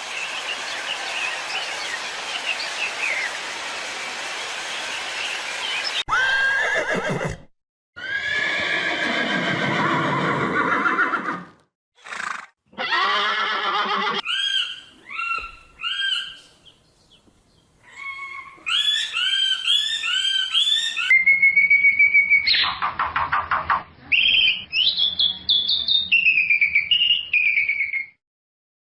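Horses neighing and whinnying in a run of separate short calls, some high and quavering, others falling in pitch, with abrupt breaks between them.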